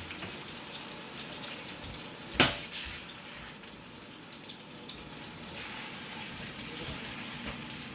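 Chicken pieces frying in hot oil in a pan, a steady sizzling hiss. A single sharp knock lands about two and a half seconds in.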